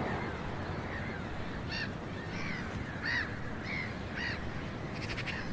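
Birds calling: a series of short, harsh calls, roughly two a second, starting about a second and a half in, over a steady background hiss.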